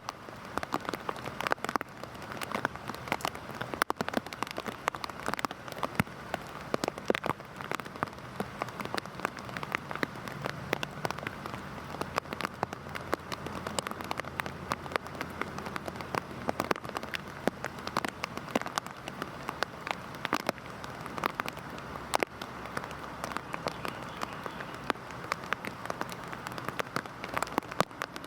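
Heavy rain falling steadily on a hard surface, with many close, sharp drop impacts spattering over a constant hiss.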